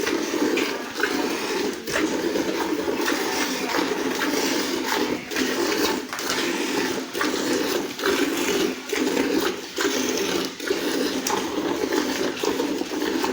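Cow being milked by hand: rhythmic streams of milk squirting into a pail, one squirt after another in a steady pulling rhythm.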